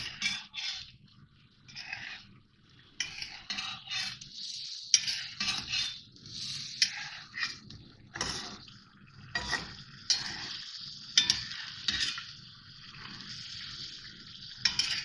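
Chicken pieces sizzling in hot oil in a karahi while a metal spatula stirs them, clinking and scraping against the pan again and again. This is the bhunai: frying the chicken with ginger-garlic paste and green chillies.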